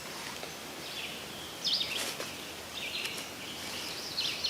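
Songbirds calling: a few short, high chirps and quick sweeping notes over steady faint background noise.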